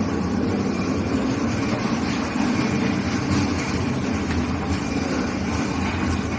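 Motor vehicle running at a steady pace: a low, even drone with road-type noise over it, from a vehicle being checked for an abnormal noise.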